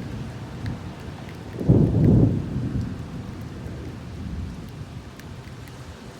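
Thunder rumbling over steady rain: a loud low rumble breaks in suddenly nearly two seconds in and dies away within about a second, with light drop ticks in the rain throughout.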